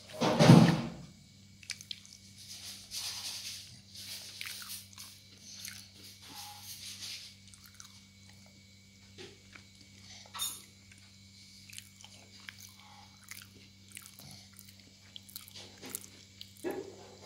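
A toddler chewing crispy fried tempeh, with scattered small crunches and clicks. A loud thump comes about half a second in, and a steady low hum runs underneath.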